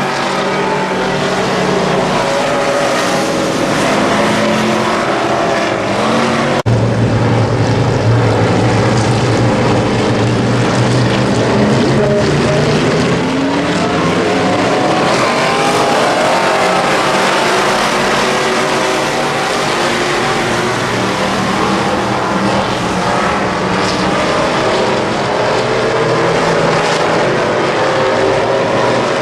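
WISSOTA Midwest Modified race cars' V8 engines running at racing speed, their pitch rising and falling as they accelerate and lift off. There is a sudden change in the engine sound about six and a half seconds in.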